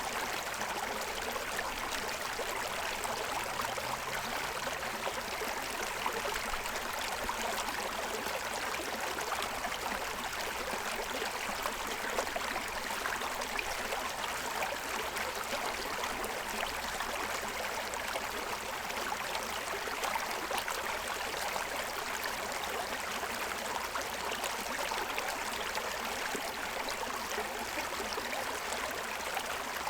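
Forest stream running steadily over the stones of its bed, a constant rush of water with fine splashing and gurgling.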